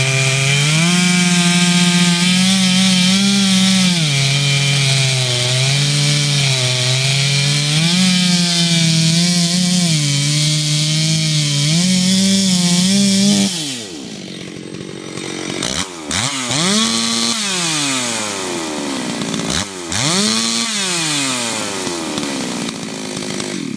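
Ported Stihl 064 two-stroke chainsaw with a 32-inch bar and full-comp chain cutting wood under load, its pitch dipping and recovering as it works through the cut. A little over halfway it comes out of the cut and drops back, then is revved up twice, each rev falling away again.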